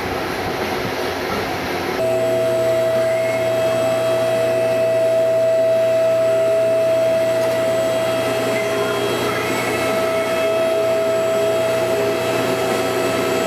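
Electric motor and hydraulic pump of a car lift running, starting about two seconds in with a steady, even whine over a low hum.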